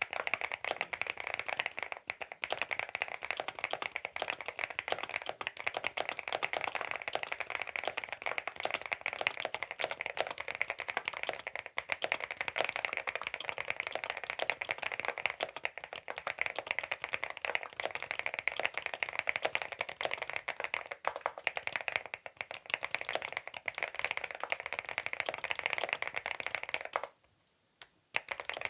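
CIDOO V87 aluminium-case mechanical keyboard with its stock linear switches being typed on in a fast, continuous stream of keystrokes, with a short pause near the end.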